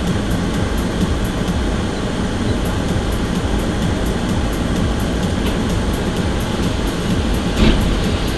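Steady rumble of a vehicle on the move, recorded by a dashcam, with a brief knock about seven and a half seconds in.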